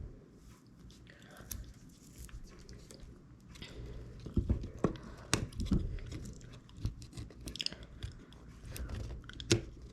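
Small clicks, taps and crinkling as a replacement iPhone 6s battery with adhesive strips is handled and pressed into place in the phone's housing, with a few sharper clicks in the middle and near the end.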